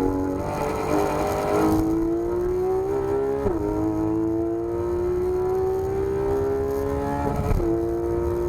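Porsche 991 GT3 RS's naturally aspirated flat-six pulling hard under acceleration, its pitch climbing steadily. It drops sharply at a quick paddle upshift about three and a half seconds in, and again near the end.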